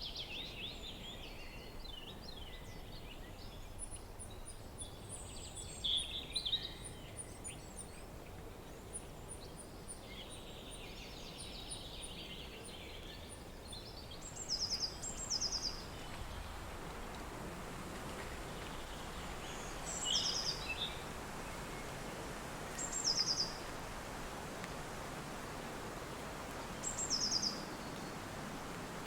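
Steady wind blowing, with several birds singing over it: chattering calls and thin, very high notes in the first dozen seconds, then a short, high, falling phrase repeated about every three to four seconds. The wind grows a little stronger about halfway through.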